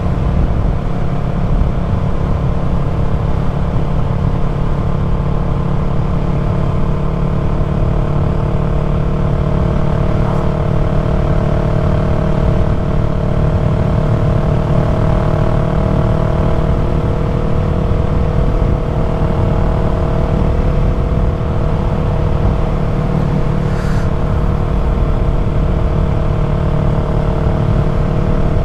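Yamaha MT-03's parallel-twin engine through an aftermarket full-system exhaust, running at a steady cruise with an even pitch, over a constant low rumble.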